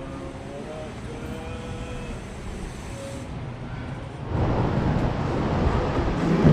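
Mountain bike riding on an indoor dirt trail: a steady low rumble with faint distant voices, then about four seconds in a sudden, much louder rush of tyre and wind noise that builds to the end.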